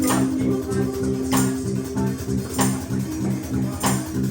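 Live band playing an instrumental passage: a repeating bass line and sustained pitched notes over a steady beat, with a sharp percussion hit about every second and a quarter.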